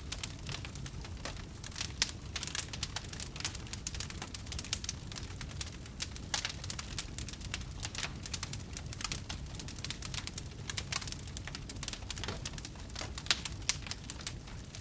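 Wood campfire burning, with irregular sharp crackles and pops over a low, steady rumble.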